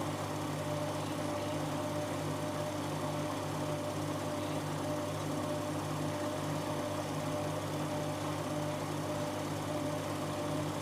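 Siemens Siwamat 7163 iQ-series washing machine running with a steady mechanical hum.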